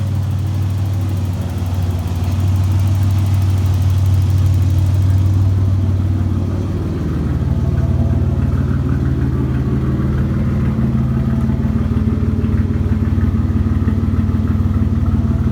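1986 Nissan 300ZX's 3.0-litre V6 running steadily through a straight-piped exhaust with the muffler cut off, a loud deep exhaust note.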